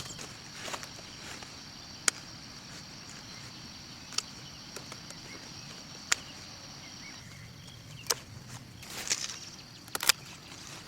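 Sharp knocks or taps, one roughly every two seconds, over a steady high insect drone and a low hum.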